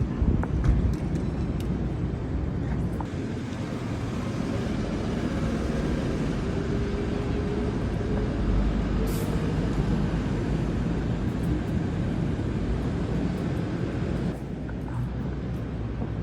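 Car driving, with steady low road and engine rumble heard from inside the cabin.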